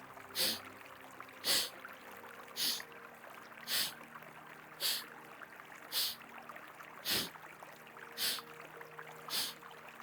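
Forceful exhalations through one nostril in Kapalabhati breathing: short, sharp hisses at an even pace of about one a second, nine in all.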